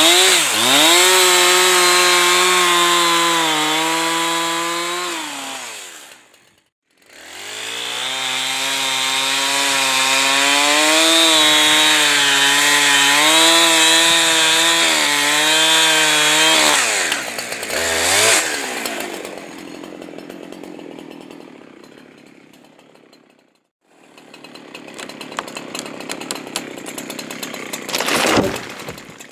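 Two-stroke chainsaw running at full throttle in two long runs, its pitch wavering as it cuts firewood, with a short break between them. After the second run it drops away, and a quieter rushing noise remains.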